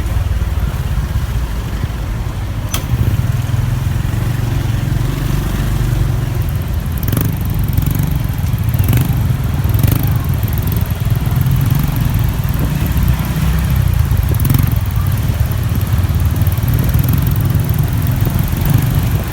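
Motorcycle running steadily under a heavy low rumble of wind on the microphone while riding, with a few short sharp clicks or knocks scattered through.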